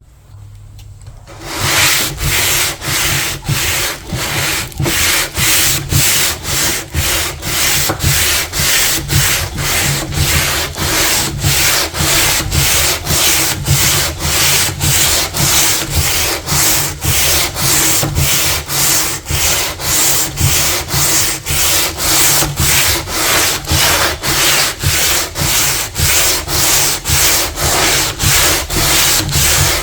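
Sandpaper rubbed by hand in steady back-and-forth strokes, about two a second, stripping old paint and finish. It starts about a second and a half in.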